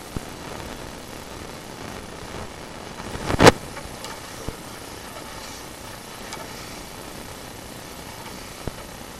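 Sewer inspection camera working its way through a scaled-up drain pipe: a steady rushing noise, with one sharp knock about three and a half seconds in and a few fainter clicks.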